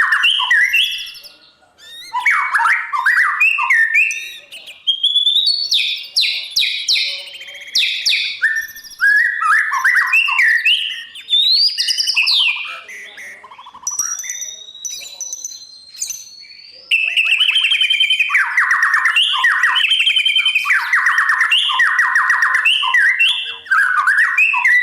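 White-rumped shama singing loud, varied whistled phrases with rising glides and rapid chattering runs. There is a short break about a second and a half in, and a long, fast, dense run of notes through the second half.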